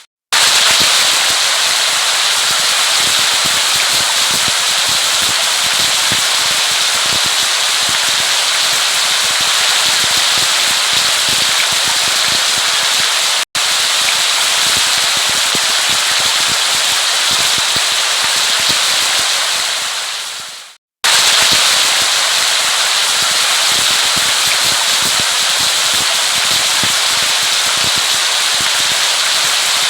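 Steady heavy rain: a dense patter of countless drops over a constant hiss. The sound drops out briefly just after the start, blinks off for an instant midway, and fades out and starts again about two-thirds of the way through, as a looped recording would.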